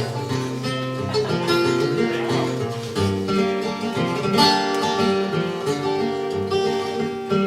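Acoustic guitar picking an instrumental introduction to an old-time mountain tune, steady picked notes with a few louder strums.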